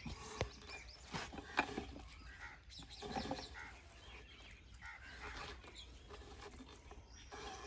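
Birds chirping and calling in the background, with a couple of light knocks about half a second and a second and a half in.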